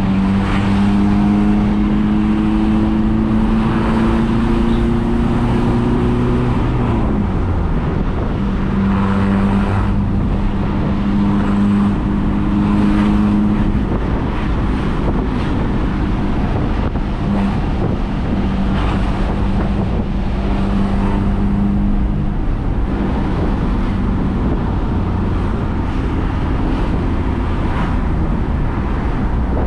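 Mitsubishi L300's diesel engine under way, heard through an aftermarket double-wound coil muffler with a deep bass exhaust note. The pitch climbs slowly for about six seconds, drops sharply about seven seconds in, then holds steady.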